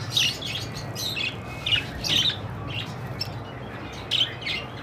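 Budgerigars chirping and chattering in short, irregular high-pitched chirps and squawks.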